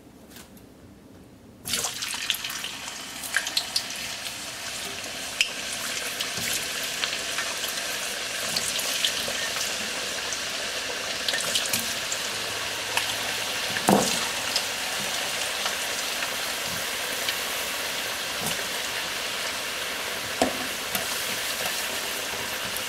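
Raw potato sticks go into hot oil about two seconds in, setting off loud sizzling at once. The deep-frying then carries on as a steady sizzle with scattered pops and crackles: the first fry of French fries.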